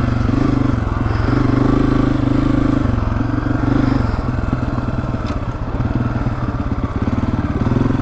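Honda CRF250F dirt bike's single-cylinder four-stroke engine running under changing throttle while riding, easing off for a moment a little past halfway. A single sharp tick about five seconds in.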